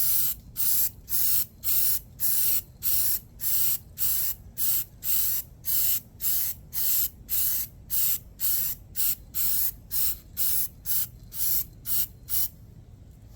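Aerosol can of spray primer hissing in short, quick bursts, about two a second, as a coat is sprayed on; the bursts stop near the end.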